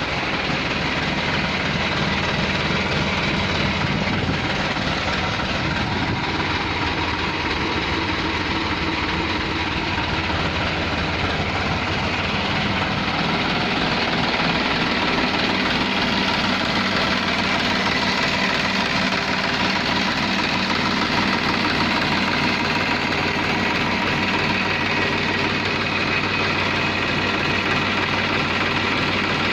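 Massey Ferguson 7250 tractor's diesel engine running steadily.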